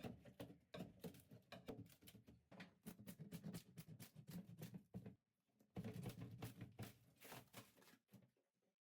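Faint, rapid, irregular knocking and tapping, like hand tools working on wood and fittings inside a small boat cabin. It breaks off for a moment about five seconds in, then resumes.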